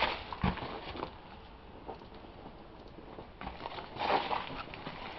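Faint footsteps and scuffing with a few scattered clicks, and a louder rustle about four seconds in.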